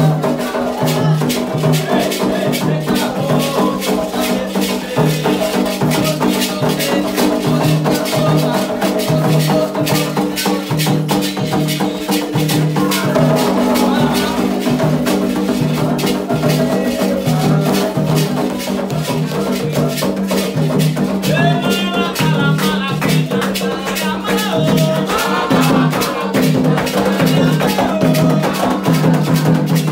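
Candomblé ritual music: rattles shaken in a fast steady rhythm over a low drum pulse, with chanting voices joining in around the middle and again later on.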